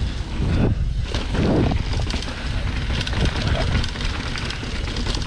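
Wind rumbling on the microphone of a camera carried by a rider going downhill on a mountain bike trail, with short rattling clicks from the bike over rough ground.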